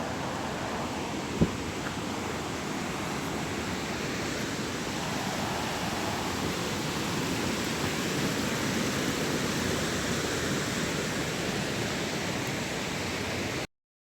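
Steady rush of water, with a single sharp knock about a second and a half in; the sound cuts off abruptly near the end.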